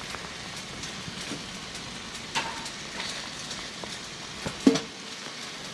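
Rain pattering steadily on a tent, with a couple of light knocks, one about two and a half seconds in and a sharper one with a brief ring near the end.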